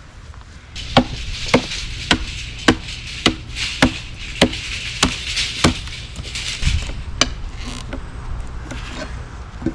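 Sledgehammer striking a steel splitting wedge in an oak round: a rapid, even series of about nine blows, then a few scattered knocks near the end.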